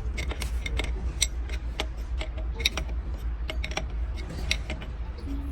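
Metal hand tools clicking and tapping on engine parts in quick, irregular strikes, over a steady low hum.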